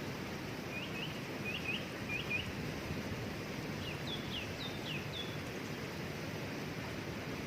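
A waterfall rushing steadily as a constant hiss of falling water. Over it a small songbird chirps in three quick pairs of short hooked notes in the first couple of seconds, then in a run of about six higher chirps about four to five seconds in.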